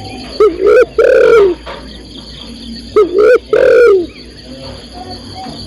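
Spotted dove (tekukur) cooing: two phrases, each of two short coos followed by a longer drawn-out coo, the second starting about three seconds in. The recording is presented as a female calling to a male.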